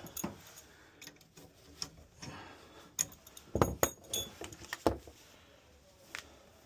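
Scattered clicks and light knocks of small metal tools and fittings being handled, loudest in a cluster between about three and a half and five seconds in.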